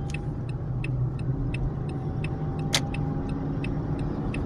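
Toyota RAV4's flasher ticking steadily about three times a second over a low engine and road hum inside the cabin as the car pulls away, with one sharper click a little past the middle.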